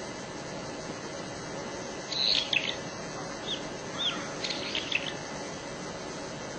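A small bird singing: short clusters of high chirps and whistled notes about two seconds in, then twice more and another cluster around four to five seconds, over a steady background hiss.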